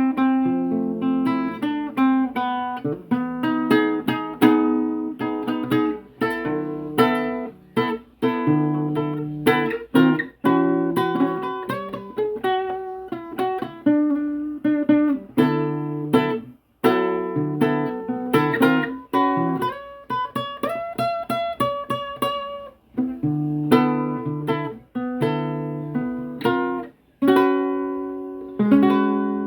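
Acoustic guitar played freely as an improvisation: plucked notes and strummed chords, each ringing out and fading, in phrases with short pauses between them.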